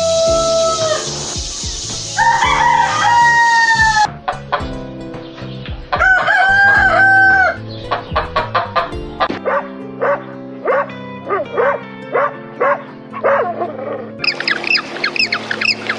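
Rooster crowing, several long calls, followed by a run of short, repeated clucks and, near the end, rapid high chirps, over background music.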